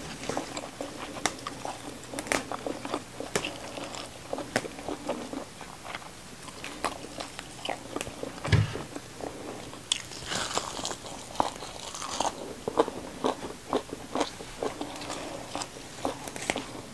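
Close-up chewing and crunching of food, with many short crisp clicks and bites. There is a stretch of leaf rustling about ten seconds in, and a single dull thump just before it.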